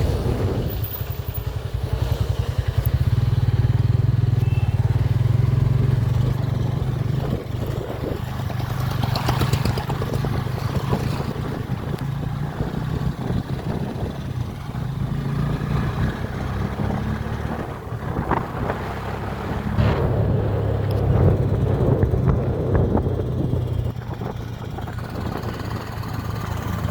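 Motorcycle engine running while riding, a steady low drone that swells and eases a few times with the throttle.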